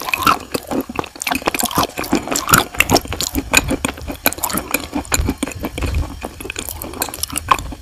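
Wet, sticky crackling of chalk and wet blue clay paste being chewed close to the microphone: a dense run of quick, moist clicks and squishes.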